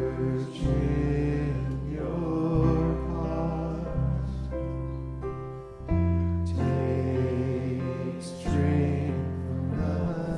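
A band leading a group of voices in singing a chant, the voices held over sustained chords that change every two to three seconds.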